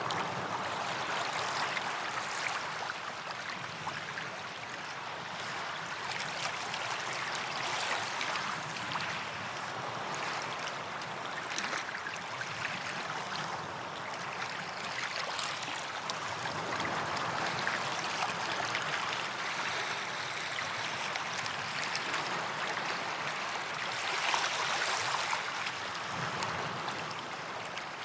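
Small waves lapping and washing on a sandy beach, a continuous fizzing wash that swells and eases every few seconds, a little stronger near the end.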